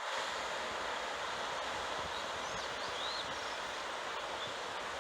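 Steady rush of heavy ocean surf and wind at a rocky cape, with a few faint bird chirps about halfway through.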